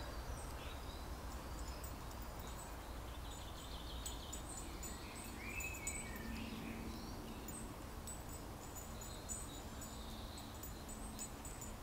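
Faint garden ambience: small birds chirping now and then over a low background rumble, with a faint steady hum from about halfway through until near the end.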